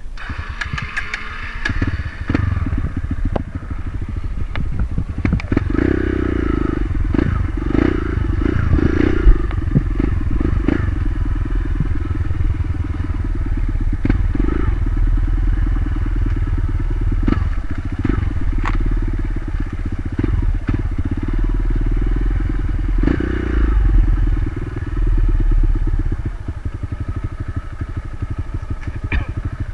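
A single-cylinder dirt bike engine running and revving on a trail, coming in about a second in and rising and falling in loudness, with scattered knocks and clatter throughout.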